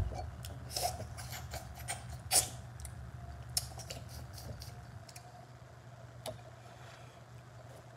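Close-up eating sounds: scattered soft wet clicks and smacks of chewing tender stewed meat picked off the bone by hand, over a low steady hum.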